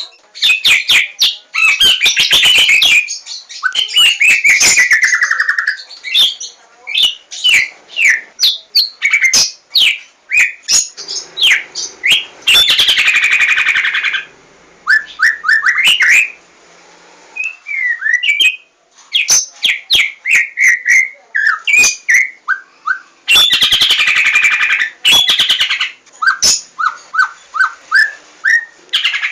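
White-rumped shama (Javan 'Larwo' murai batu) singing a loud, varied song: sliding whistles and short repeated whistled notes, broken by fast clicking, rattling runs, the longest of them a few seconds in, about halfway through, and again near the end.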